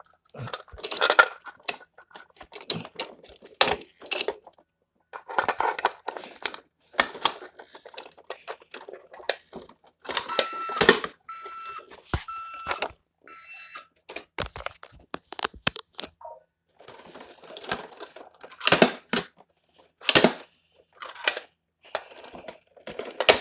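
Toy garbage truck worked by hand, its plastic bin-lifting mechanism clicking and rattling as it handles a trash bin. About ten seconds in, an electronic beep sounds in several short pulses.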